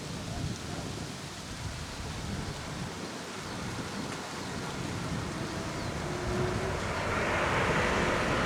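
Aircraft noise growing louder as a plane approaches, a rising rushing hiss over a low wind rumble on the microphone.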